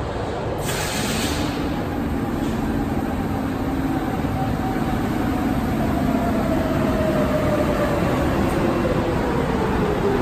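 Subway train running over track: a steady rumble with a short hiss about a second in, and a whine that slowly falls in pitch through the second half.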